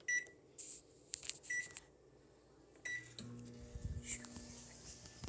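Microwave oven keypad beeping three times as it is set, then the oven starting up and running with a steady low hum.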